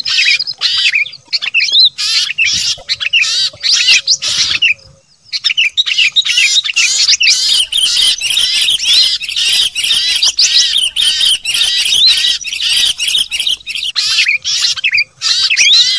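A dense chorus of many small songbirds chattering and chirping fast and excitedly all at once, with a brief break about five seconds in. It is a lure recording of agitated birds, used to draw wary birds down.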